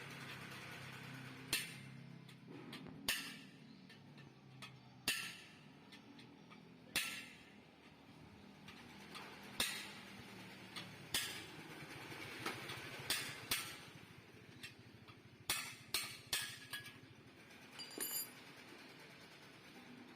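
Hammer striking metal parts of a motorcycle exhaust being reworked, sharp separate blows at irregular intervals of a second or two. One blow near the end rings with a metallic tone.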